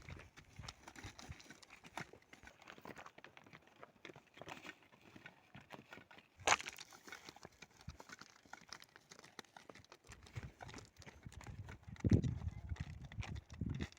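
Footsteps crunching and knocking on a stony trail, an irregular patter of small crunches, with one sharper knock about halfway through and a low rumble near the end.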